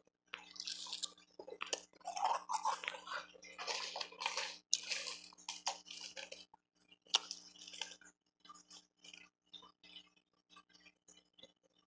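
Close-miked chewing and crunching of refrozen powdery ice. Dense, irregular crackling crunches fill the first eight seconds or so, then thin out to sparser, softer crackles and clicks.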